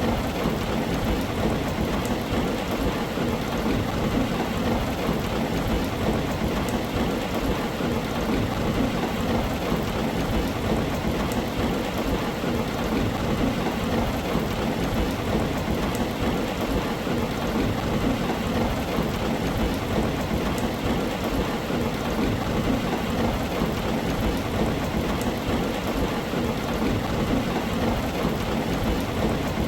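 Steady heavy rain falling on a tin roof, an even hiss with scattered drop ticks and a low rumble underneath.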